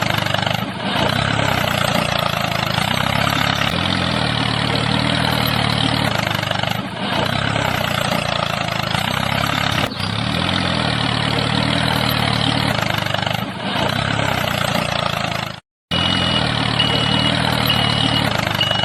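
Tractor engine running steadily at idle, with brief dips every few seconds and a sudden short cut-out near the end. Four short high beeps follow the cut-out.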